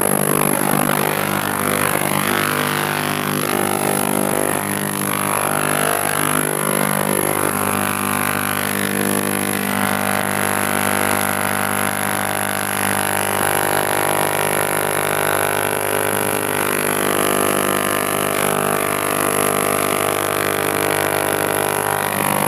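3-litre ultrasonic cleaner running, with a steady buzzing drone and a thin high whine over it.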